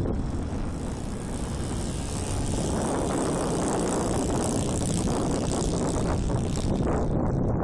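Radio-controlled scale model Cessna 177 Cardinal on skis flying, its engine and propeller running hard with a high whine that drops away about seven seconds in; the ski drag keeps it at full throttle.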